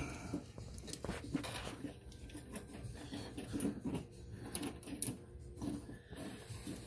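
Irregular light clicks and knocks of small objects being handled, with no steady running sound.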